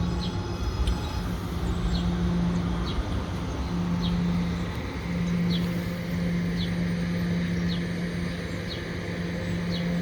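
Staten Island Railway subway-type train standing at a station platform, giving a steady electric hum from its onboard equipment over a low rumble. A short high chirp repeats roughly once a second over it.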